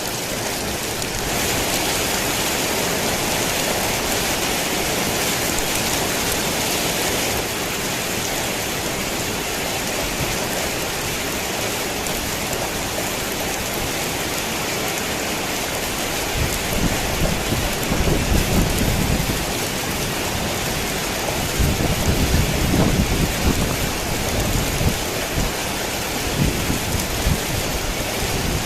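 Steady heavy rain falling on a tin roof, heavier for several seconds near the start. Low rumbles of thunder come twice in the second half.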